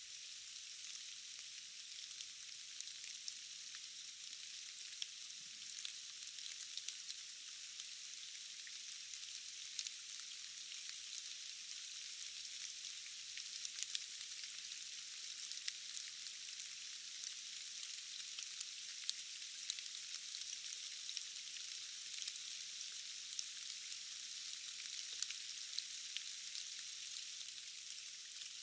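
Steady rain falling, an even hiss with many separate drops ticking irregularly throughout.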